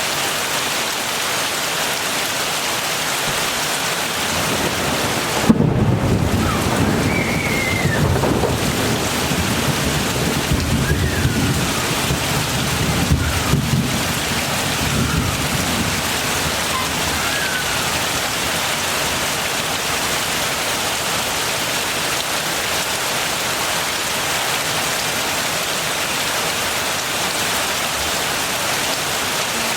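Heavy rain falling steadily, with a sudden thunderclap about five seconds in that rolls on as a low rumble for roughly ten seconds before fading back into the rain.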